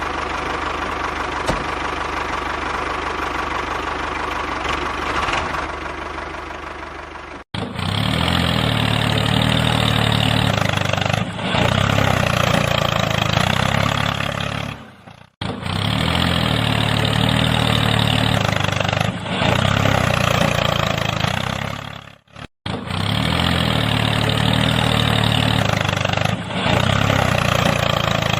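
Engine running steadily, broken by abrupt cuts into three near-identical sections of about seven seconds each, like a looped engine sound.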